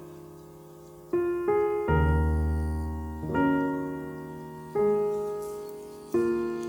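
Slow, gentle piano background music: chords struck every second or so, each left to ring and fade.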